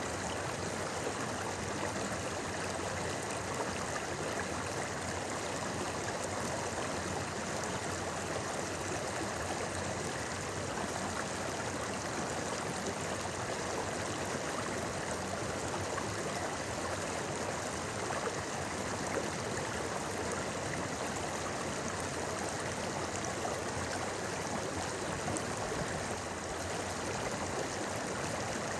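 A clear, shallow river flowing steadily over stones, a continuous babbling and gurgling rush of water.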